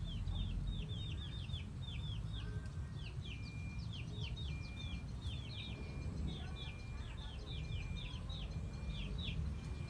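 Birds chirping: quick, high, downward chirps coming several a second in clusters, over a steady low rumble.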